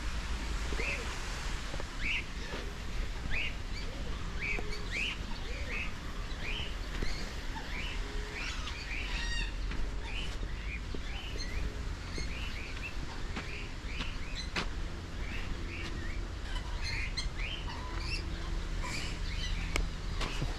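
Wild birds calling: many short, high chirps repeated about once or twice a second, with a few fainter lower notes, over a steady low rumble.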